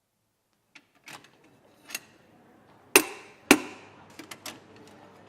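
A few light clicks, then two loud, sharp knocks about half a second apart, followed by a few lighter clicks.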